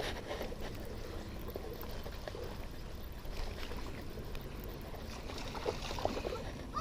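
Steady wash of creek water running, with low wind rumble on the microphone and a few faint ticks.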